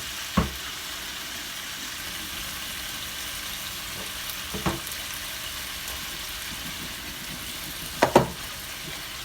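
Steady sizzle of chicken frying in a pan on the stove, with a few knocks of cookware being handled, the last a double knock near the end.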